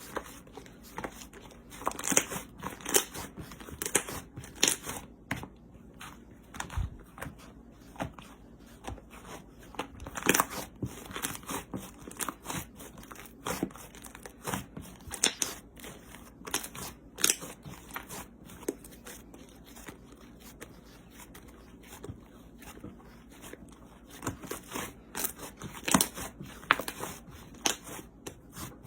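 Hands squeezing and pressing slime, making irregular crackling, clicking pops several times a second.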